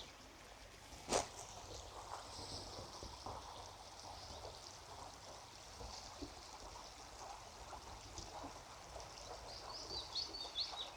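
Faint, steady rush of a river flowing, with small birds chirping briefly near the end and a single sharp knock about a second in.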